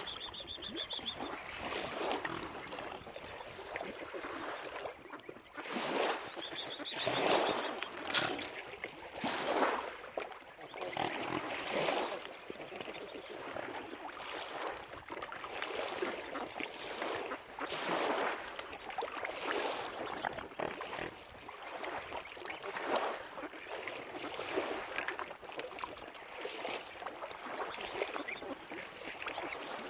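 Water splashing and lapping in irregular surges, with two brief high-pitched sounds near the start and about seven seconds in.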